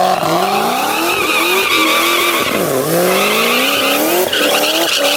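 Cadillac CTS-V accelerating hard with its rear tyres spinning and squealing. The engine pitch climbs again and again, drops sharply about halfway through, then climbs once more.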